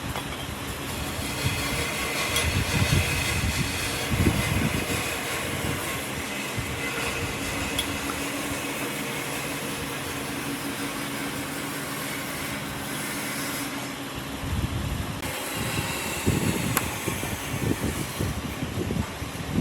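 Wood lathe running with a steady motor hum and rushing noise; the sound changes abruptly about three-quarters of the way through.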